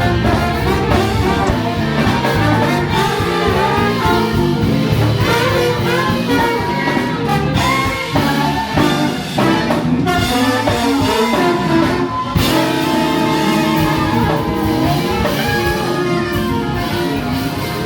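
Jazz music with brass horns playing a melody over a full band.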